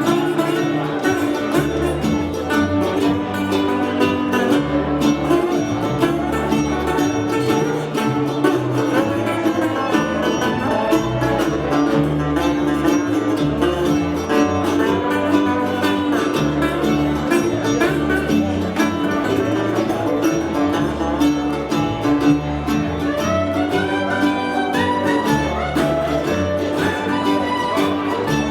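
A live band playing an instrumental passage with a steady bass line and no singing.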